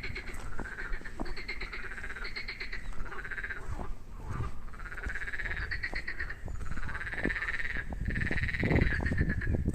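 A chorus of frogs calling: many overlapping croaks, each a quick rattle of pulses lasting under a second, repeating one after another.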